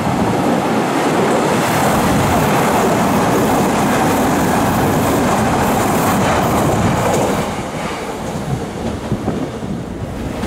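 Odakyu 60000-series MSE Romancecar electric train running past on the station tracks, with loud rail and wheel noise. The noise eases about three-quarters of the way through as the train goes by.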